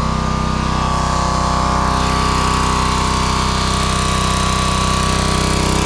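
Craftsman pressure washer's small gasoline engine running steadily at one speed.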